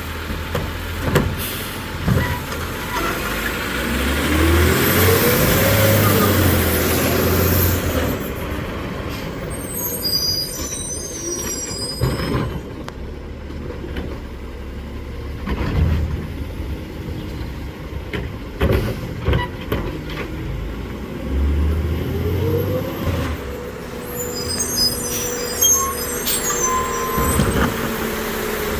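Automated side-loader garbage truck with a New Way Sidewinder body, working its route. The engine revs up twice, rising then settling, as it powers the hydraulic arm. In between there are sharp knocks and clatters of the arm and a cart dumping into the hopper.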